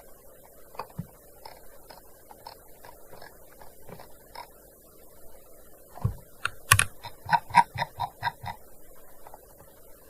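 Typing on a gaming keyboard: a few scattered, light keystrokes, then about six seconds in a quick run of about ten louder clacks that stops after two and a half seconds.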